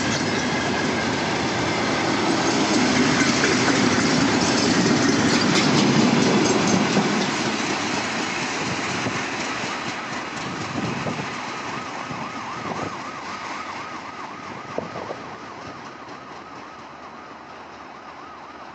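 Freight train wagons rolling past, the wheels clattering on the rails, the rumble fading steadily as the end of the train draws away. In the second half a faint wavering high tone comes in, like a distant siren.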